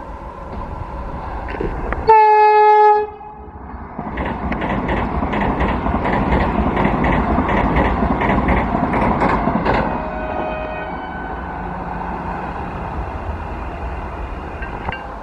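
Indian Railways express train sounding its horn in one blast of about a second, then rushing past at speed with the wheels clattering rhythmically over the rail joints. The rush fades out over the last few seconds.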